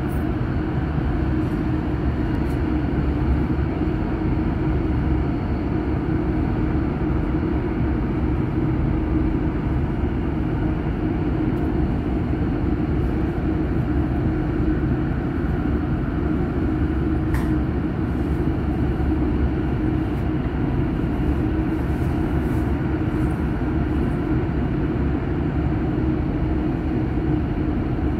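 Steady running noise inside the passenger saloon of a Stadler RABe 511 KISS double-deck electric train: a continuous low rumble from the wheels and running gear with a steady hum in it. A faint click comes about two-thirds of the way through.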